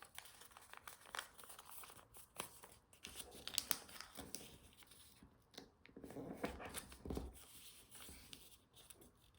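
Origami paper being folded and creased by hand: soft rustling and crisp crinkles, busiest about three to four seconds in and again around six to seven seconds.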